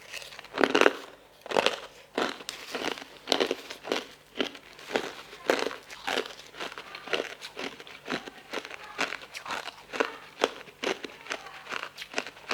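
Close-up crunching and chewing of food, the crunches coming in an irregular run of two or three a second, the loudest about a second in.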